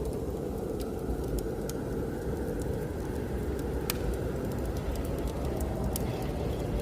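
Steady low rush of blizzard wind with a wood fire crackling over it: scattered sharp pops, one louder about four seconds in.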